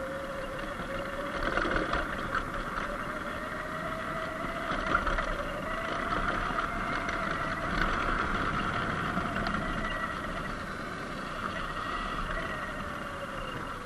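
Sur-Ron X Light Bee electric dirt bike riding downhill: the electric drive whines at a steady pitch that rises slightly and then eases down near the end, over a steady rush of wind and tyre noise.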